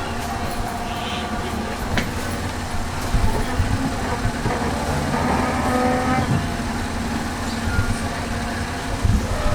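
Train running with a steady low rumble, with a sharp knock about two seconds in.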